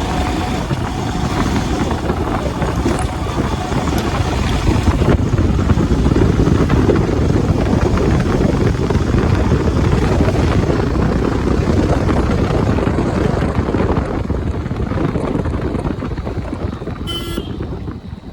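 Wind rushing over the microphone of a moving motorcycle, with the bike's engine running underneath. A short, high, pulsing sound comes in near the end.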